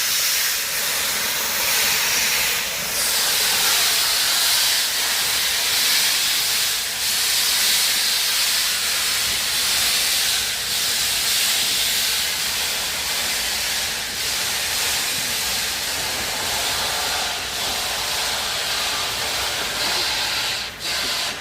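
Steam hissing loudly from a Bulleid West Country class steam locomotive, 34046 Braunton, swelling and easing every second or two, then stopping abruptly near the end.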